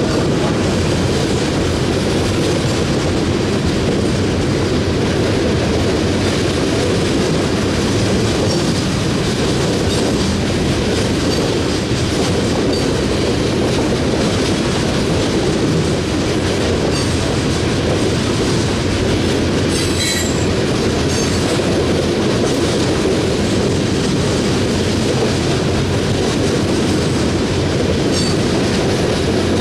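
Loaded-style open-top coal cars of a freight train rolling past close by: a steady, loud rumble of steel wheels on the rails. A brief high squeal from the wheels comes about twenty seconds in.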